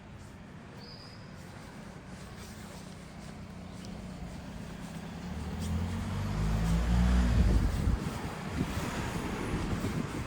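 A motor vehicle passing close by. Its engine rumble builds over several seconds, is loudest about two-thirds of the way through, then drops away suddenly, leaving a rushing road noise. A bird chirps briefly about a second in.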